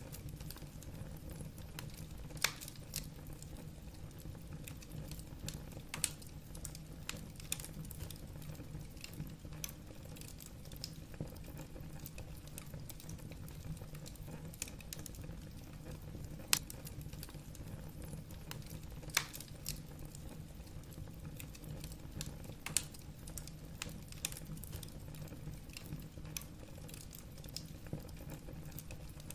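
Wood fire burning in a fireplace: a low steady rumble of flame with irregular sharp crackles and pops of the burning logs.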